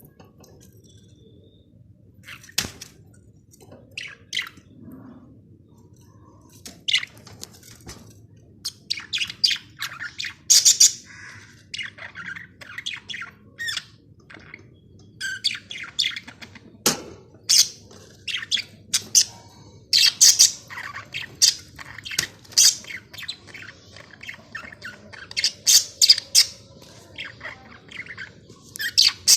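Budgerigars chirping and chattering in short, high calls: a few scattered chirps at first, then rapid, busy chirping from about nine seconds in.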